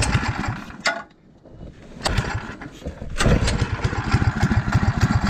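Small single-cylinder go-kart engine being started: it sputters, goes quiet, coughs, then catches about three seconds in and runs with an even putter. This is a kart engine that keeps dying; the owner suspects its carburettor.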